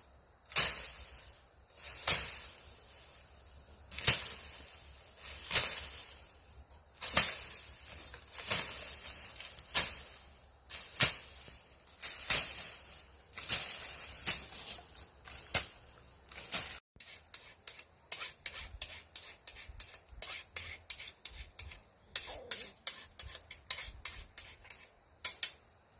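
Machete slashing through tall grass in sharp swishing strokes, about one every second and a half. After an abrupt break about two-thirds of the way through come quicker, lighter strokes, several a second.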